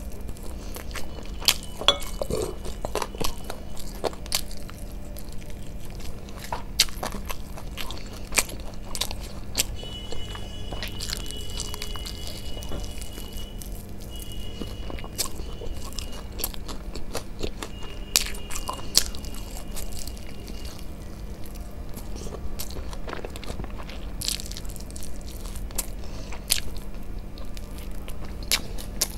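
Close-miked eating: biting and chewing sauce-coated fried chicken lollipops (drums of heaven), with many irregular sharp clicks and smacks, and fingers sucked clean at the mouth.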